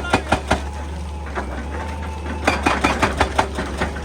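Excavator-mounted hydraulic breaker hammering rock in rapid blows, about eight a second, in two runs: one stops about half a second in and the other comes in near the middle. The excavator's diesel engine hums steadily between them.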